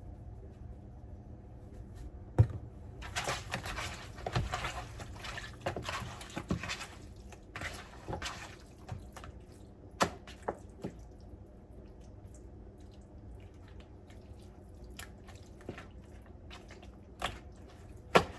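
Raw chicken being handled and turned in its seasoning: wet squishing for several seconds, then a few scattered sharp knocks and clicks.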